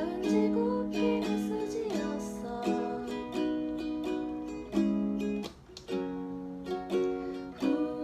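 Ukulele strumming chords steadily, with a short break in the playing a little after five seconds.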